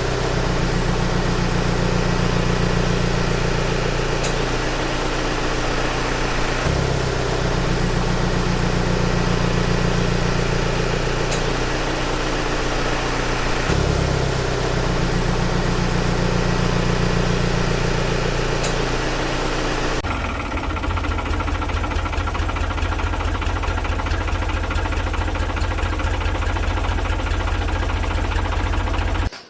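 Steady engine idling sound, a loop that repeats about every seven seconds, giving way about two-thirds of the way through to a different, lower engine drone that stops just before the end.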